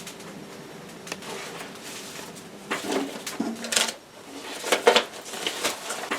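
Dishes and utensils clattering in a few short bursts of clicks and knocks over a low steady hum.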